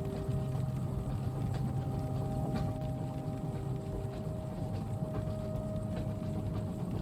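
Train carriage ambience: a steady low rumble of the train running, with a few held humming tones over it and scattered light ticks of rain on the window.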